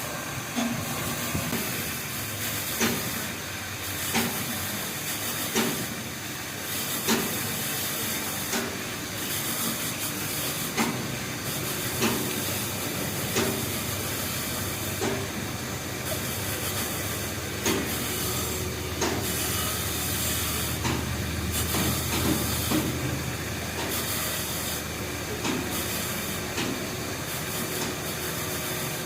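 Steady hiss with sharp knocks about every second and a half.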